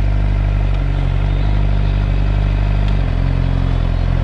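2013 Suzuki GSX-R600's inline-four engine running steadily at low speed while riding, its note stepping up slightly about three seconds in.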